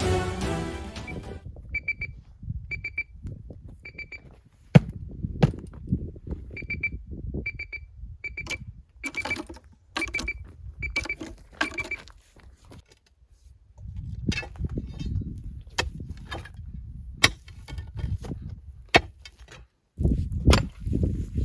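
Metal detector giving repeated short, high, single-pitched beeps, singly and in quick runs, for about the first twelve seconds. Sharp clicks and knocks and a low rumble run alongside and carry on after the beeping stops.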